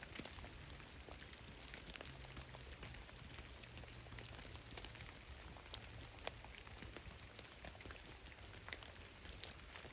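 Water drops from melting snow falling in a forest: many faint, irregular drips and ticks, scattered at random over a soft background hiss.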